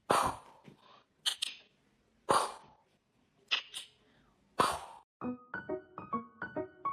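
Five short, sharp, noisy bursts about a second apart, each fading quickly; then piano music starts a little after five seconds in.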